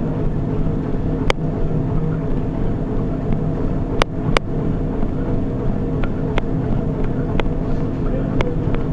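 Treadmill running under a runner: a steady drone of motor and belt, with a few sharp clicks at irregular moments.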